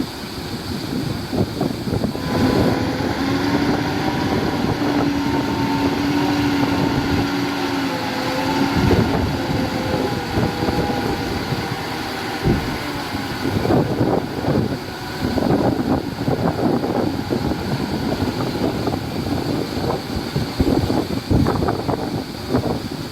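Heavy earthmoving machinery working, its engine rumble mixed with knocks and wind buffeting the microphone. From about two seconds in to about twelve seconds a steady whine sits above the rumble.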